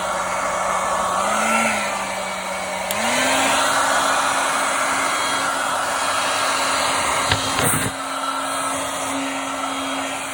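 A hair dryer running steadily, blowing poured acrylic paint across a canvas to spread the colours; its motor hum steps up in pitch about three seconds in. A brief knock sounds near the end.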